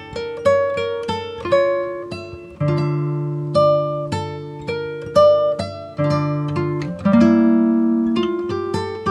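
Acoustic guitar music: single picked notes at first, then chords struck and left to ring about once a second.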